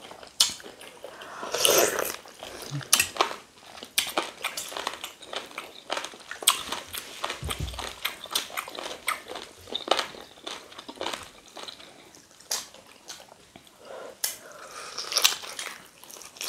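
Close-up eating sounds: biting, chewing and crunching boiled chicken, bone and gristle, with many irregular wet mouth clicks and a louder run of bites about two seconds in and again near the end.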